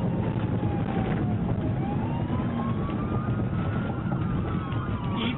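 Police car siren wailing, its pitch sliding slowly down, up and down again, over the steady engine and road noise of the pursuing squad car.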